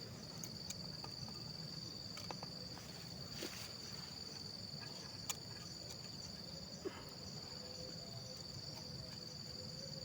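Insects in the forest chirring in one steady, unbroken high-pitched tone, with a couple of faint clicks from handling cooking gear partway through.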